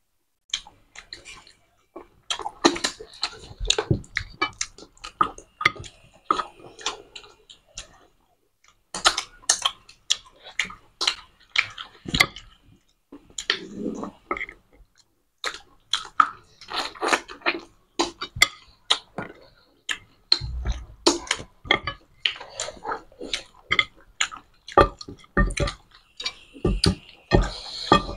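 Two people chewing and lip-smacking mouthfuls of mutton curry and rice eaten by hand: an irregular run of short, wet mouth clicks, with a few low thumps in the last third.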